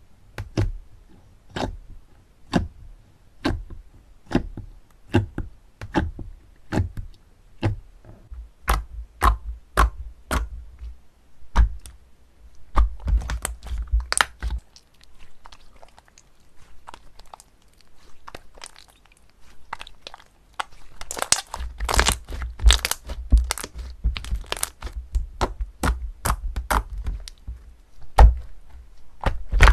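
Crunchy slime being pressed and squeezed by hand, giving sharp cracks and crunches. At first there is a single crack about every second. A dense run of crunching comes about 12 seconds in, and after a sparser stretch the crunching turns rapid and packed again from about 21 seconds on.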